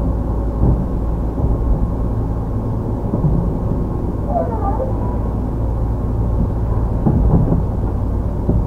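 Steady low hum inside a Tobu 10030 series commuter car standing at a station, its onboard electrical equipment running while the train waits with its motors idle.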